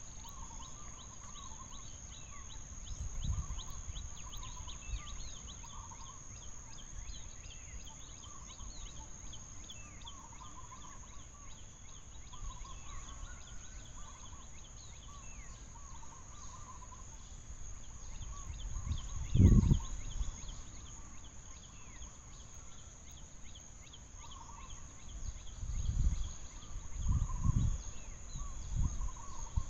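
Outdoor forest ambience: a steady high insect drone under many short, repeated bird calls. Several low, dull thumps stand out, the loudest about two-thirds of the way through and a cluster near the end.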